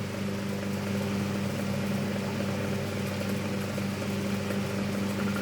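12-inch Emerson antique desk fan running on high speed: a steady motor hum with the rush of its blades. It runs noisy because its motor has not been oiled.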